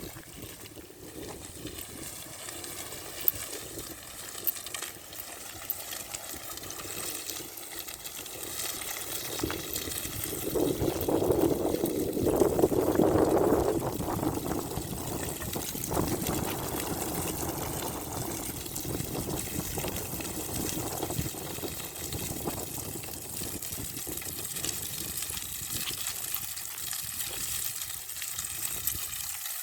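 Rushing wind of a passing dust devil, swelling loudest about ten to fourteen seconds in, then easing to a steady rush.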